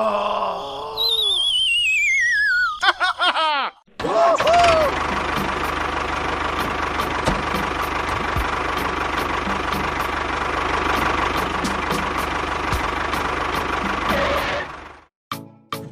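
A wavering whistle slides down in pitch, followed by a few quick chirps. Then a motor-vehicle engine runs steadily for about eleven seconds before cutting off suddenly.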